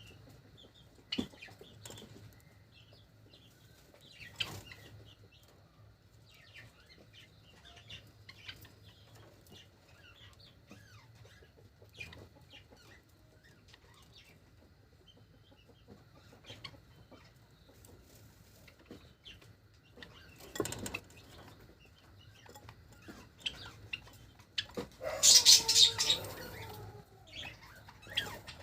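Pet Java sparrows giving short, faint chirps, with scattered clicks and ticks as they move about. About 25 seconds in comes a louder, noisy burst carrying a short gliding call.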